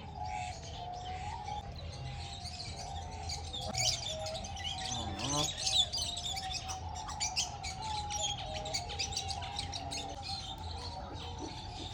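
Many birds chirping and twittering together in a dense, continuous chorus, over a steady wavering tone and a low hum.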